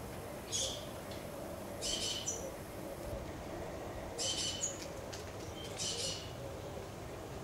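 A bird calling repeatedly: short, high-pitched calls, one every second or two, over a steady low background hum.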